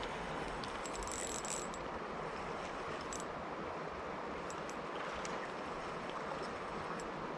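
River water running steadily, with a few faint clicks and ticks over it about a second in.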